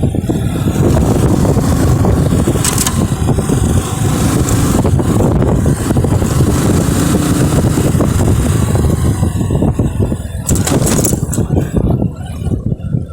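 Motorcycle engine running under way, a continuous low rumble, with a couple of short knocks or rattles, one about three seconds in and another near the end.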